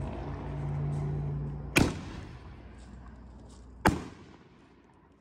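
Consumer aerial firework shooting: two sharp bangs about two seconds apart, the second as a shell bursts overhead, followed by a fading echo.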